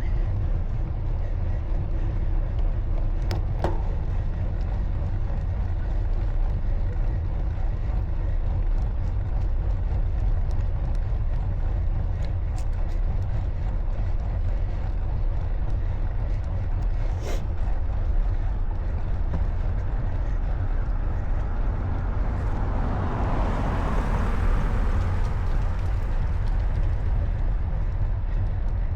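Steady low wind rumble on the microphone of a camera riding along on a bicycle. Around two-thirds of the way through, a passing vehicle swells up and fades away. A couple of sharp clicks come earlier.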